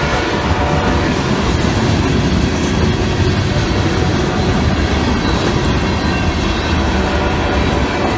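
Freight cars of a CSX mixed freight train (tank cars, covered hoppers and boxcars) rolling steadily past: a loud, even rumble of steel wheels on the rails, with a few sharp clicks scattered through it.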